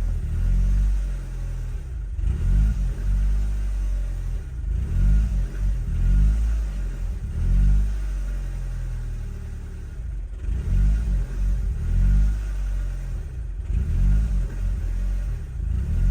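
2011 Audi S3 2.0 TFSI turbocharged four-cylinder engine running, its speed swelling up and dropping back again and again, about once a second, with brief dips between. It is recorded as the symptom of a vacuum leak.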